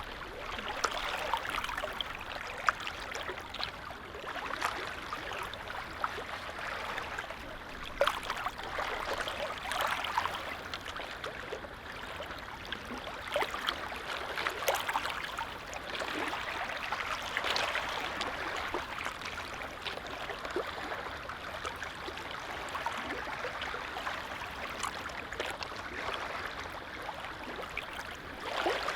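Small waves on a calm lake lapping, heard as a continuous watery wash dotted with many little splashes.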